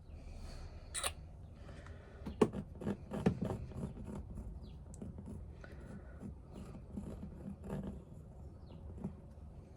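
Small clicks, taps and light scrapes of painting tools handled on a work table, with a cluster of sharper knocks about two and a half to four seconds in.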